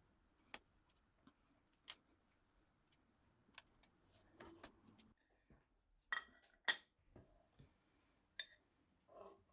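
Scattered light taps and clinks of kitchenware, with two louder ringing clinks about six and seven seconds in, like utensils or dishes touching.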